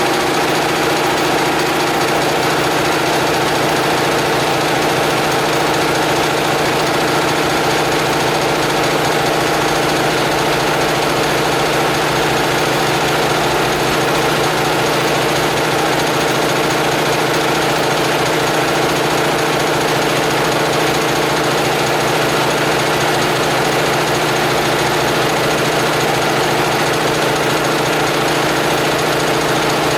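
Homemade air compressor running steadily, a constant hum with a rapid, even pulsing.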